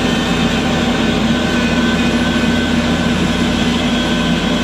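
Excavator's diesel engine running steadily at a constant speed, a steady drone with no change in pitch.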